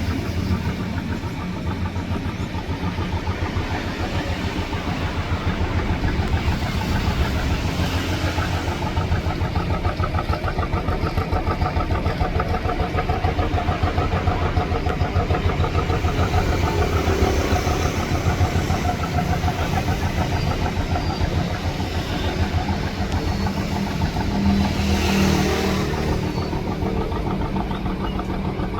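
Boat engine running steadily with a fast, even chug and a low hum. A rush of hissing noise swells briefly about 25 seconds in.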